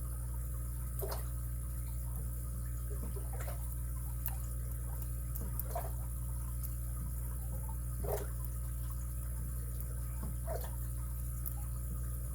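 Steady low hum with small, scattered clicks and scrapes every second or two: lock picks and a tension wrench working the pins of a padlock with a free-spinning core.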